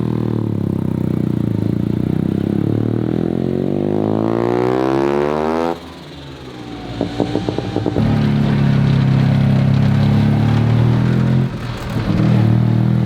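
Single-rotor turbocharged Mazda rotary engine under way. Its revs climb steadily for a few seconds, then fall away sharply as the throttle is lifted. A few sharp cracks follow, then the engine settles into a steady note, with a brief dip near the end.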